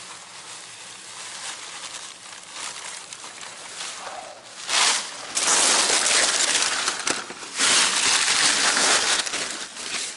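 Loud rustling and crinkling of plastic and packaging being handled in a dumpster, starting about halfway in and going on in irregular surges.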